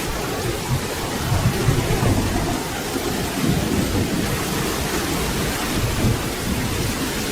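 Steady rain falling, with a low thunder rumble rolling underneath it.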